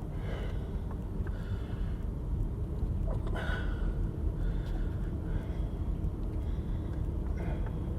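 A vehicle driving slowly over a rough dirt field road: a steady low engine and tyre rumble, with a brief rattle about three and a half seconds in.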